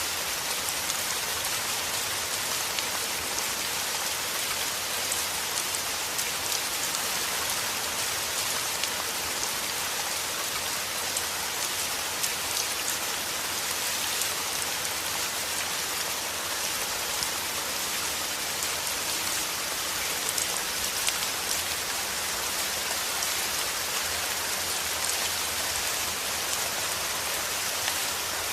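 Steady heavy rain falling, a dense even hiss with many small drops pattering on a surface.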